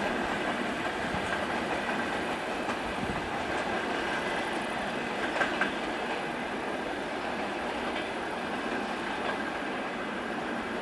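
Passenger train coaches rolling past, the wheels on the rails making a steady rumble with light clicks.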